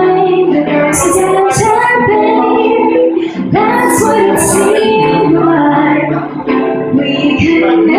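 Live acoustic music: a voice singing a melody over acoustic guitar.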